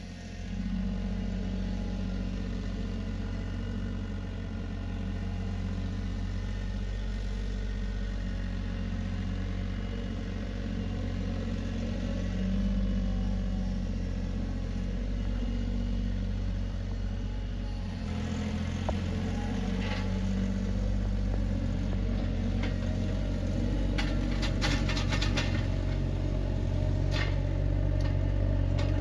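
Tractor engine running steadily at a low, even idle. Its note changes about two-thirds of the way through, and a short run of light clicks or rattles comes near the end.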